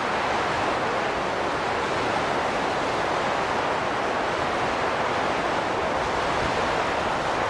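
Wind blowing steadily, an even rushing noise with no gusts or whistling tones.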